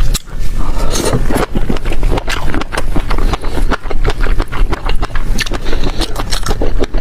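Close-miked chewing and crunching of food in the mouth, a dense run of crackles and clicks.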